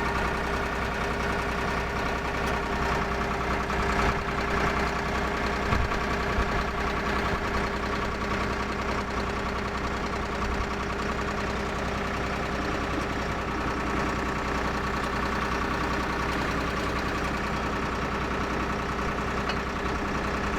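Drill rig's engine running steadily, with a couple of short knocks about four and six seconds in.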